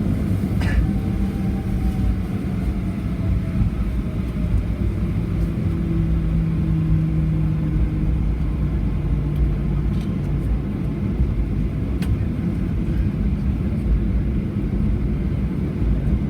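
Steady cabin rumble of a Boeing 737-800 with its CFM56 engines running, heard from inside the cabin, with engine tones slowly shifting in pitch and a few faint clicks.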